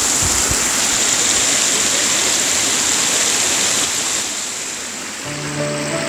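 Steady rushing of a waterfall, an even wash of water noise. Music comes in about five seconds in as the water sound drops away.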